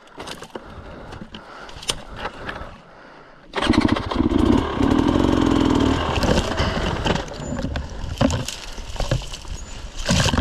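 Dirt bike engine starting suddenly a little over a third of the way in, then running loud and revving, its pitch rising and falling.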